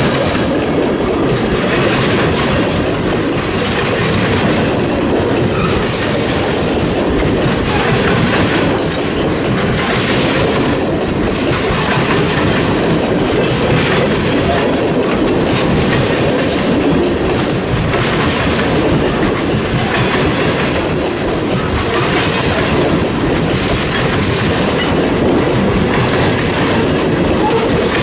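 Freight train cars rolling past, steel wheels clicking over rail joints in a steady, continuous clickety-clack.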